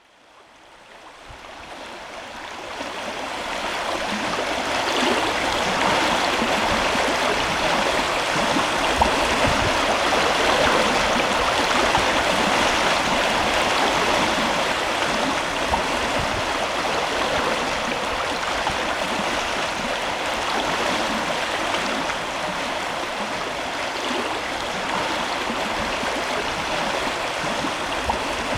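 Running water, a steady rushing and gurgling that fades in over the first few seconds and then holds even.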